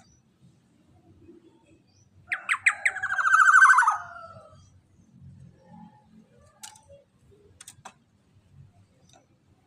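Black-naped oriole (kepodang emas) calling: a few sharp notes about two seconds in, running straight into a long, harsh rasping call that fades out about two seconds later. A few faint clicks follow.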